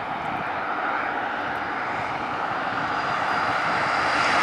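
Steady rolling rumble and rail noise of a passing double-stack intermodal freight train, slowly growing louder.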